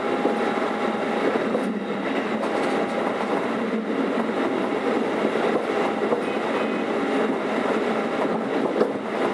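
Keikyu 600 series electric train running, heard from inside the motor car: steady wheel-and-rail running noise, with a thin steady tone that fades out a couple of seconds in.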